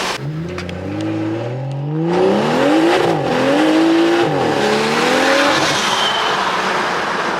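Car engine accelerating hard under full throttle. Its pitch climbs, then drops at each upshift: about three seconds in, just after four seconds, and near six seconds.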